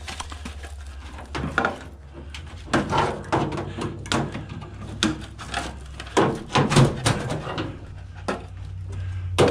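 Hand tools knocking and rattling against the metal parts of an old microwave oven being taken apart: a run of irregular clicks and knocks over a steady low hum.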